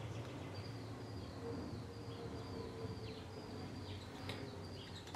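Faint background with a low hum and a bird's high, thin chirping that starts about half a second in.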